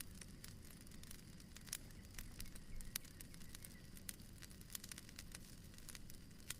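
Fireplace wood fire crackling softly: frequent small irregular pops and snaps over a low steady rumble.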